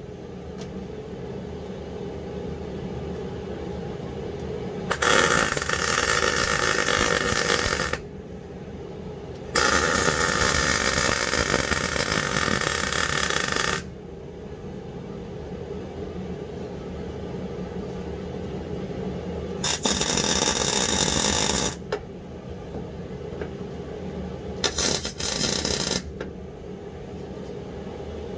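Electric welder crackling in four bursts of a few seconds each, the longest about four seconds, as sacrificial bolts are welded onto seized seat belt bolts to get them out. A steady low hum runs between the bursts.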